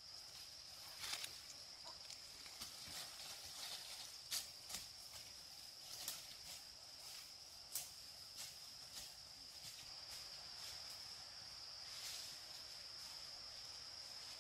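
A steady, high-pitched insect trill, like crickets or cicadas, with a few scattered sharp clicks or snaps over it.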